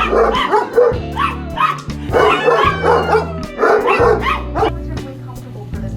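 A dog barking repeatedly in several quick bursts over background music.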